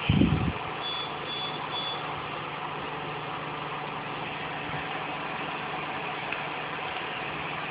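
Steady background hum and hiss, with a short thump at the start and three quick high electronic beeps about a second in.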